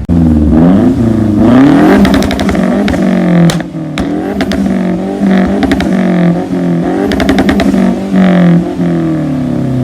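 Car engines revving again and again, their pitch rising and falling, with music playing over them.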